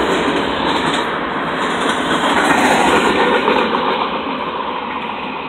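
Freight train's cars rolling past on the rails: a steady noise of wheels on track that slowly fades as the end of the train passes and draws away.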